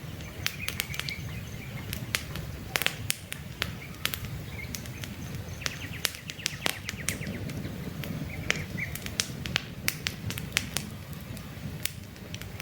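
Wood campfire crackling, with frequent sharp irregular pops over a low steady rumble of flame. Faint bird chirps come in now and then behind it.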